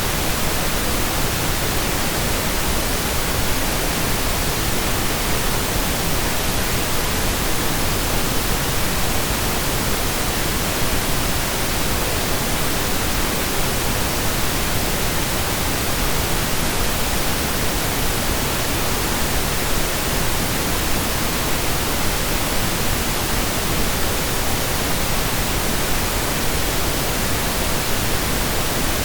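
Synthesized pink noise: a steady, even hiss spread evenly across the octaves, like rain or a waterfall heard from indoors, with no change in level.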